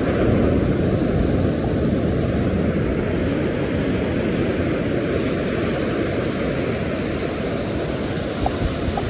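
Steady low rushing of surf and wind buffeting the microphone on an open beach, with no distinct pitched engine sound.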